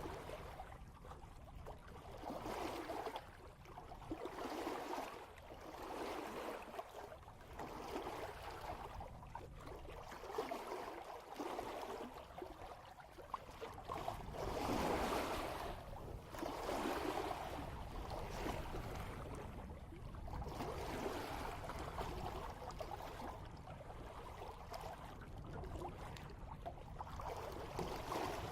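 Water rushing and splashing past a sailboat's bow at about 3 knots, in uneven swells every second or two, with a steady low rumble of wind.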